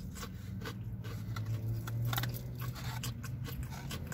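A person chewing battered fried fish with the mouth close to the microphone, giving irregular small crunching clicks. Under it runs a low steady hum that swells slightly about halfway through.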